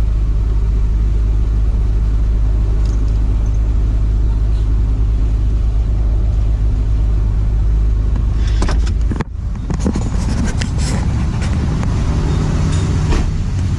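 Perodua Kancil's small engine running steadily at idle, with the air-conditioning on for a cooling test. About nine seconds in, the sound cuts off abruptly and gives way to a noisier mix with scattered clicks.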